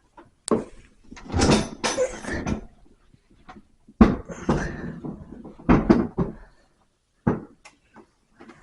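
Knocks, clunks and scraping as a flat-screen TV with bolted-on mounting arms is lifted and hooked onto a wall mount: a sharp knock near the start, a stretch of rubbing, a hard clunk about four seconds in, then more knocks.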